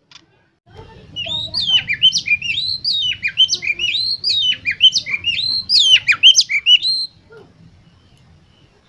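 Oriental magpie-robin (kacer) singing a fast, varied phrase of sharply rising and falling whistled notes. It starts about a second in and breaks off about seven seconds in, over a low hum.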